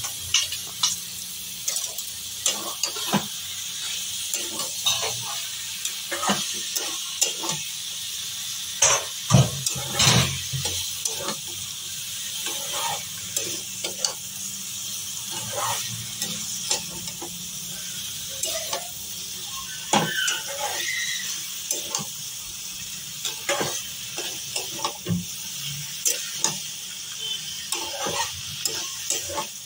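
Green jackfruit and potato pieces sizzling in hot oil and spice paste in a metal kadai, fried (kasha) after the masala has cooked down, with a steady sizzle. A metal spatula stirs and scrapes them, giving irregular clacks and scrapes against the pan.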